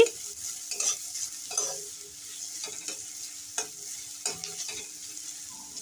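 Chopped onion, green chillies, garlic and ginger sizzling gently in oil in a steel kadai while being sautéed. A flat metal spatula stirs them, scraping the pan about once a second.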